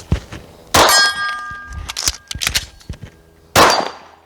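Two pistol shots about three seconds apart, the first followed by a ringing metallic clang. Between them come a few quick clicks and knocks of a speed reload.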